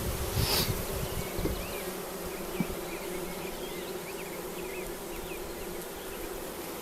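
Honeybees buzzing, the steady hum of many bees from an opened colony, with a brief rustle about half a second in.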